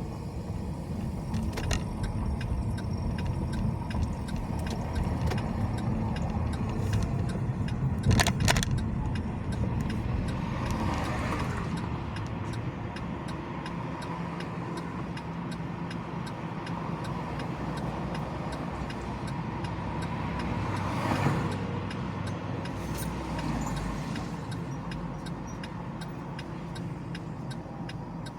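Car driving on city streets: steady low road and engine rumble, with a short sharp clatter about eight seconds in and two whooshes that swell and fade, one around eleven seconds and one around twenty-one.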